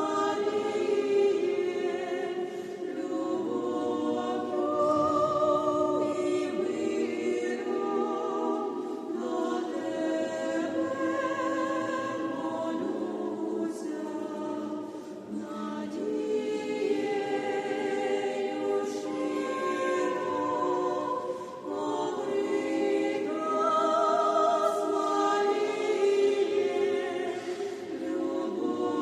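Church choir singing a sacred song in Ukrainian, voices holding long notes with vibrato, in phrases with short pauses between them.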